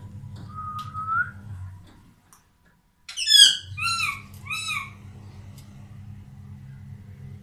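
Ringneck parakeet calling: a short rising whistle, then about two seconds later a loud falling squawk followed quickly by two shorter arched calls.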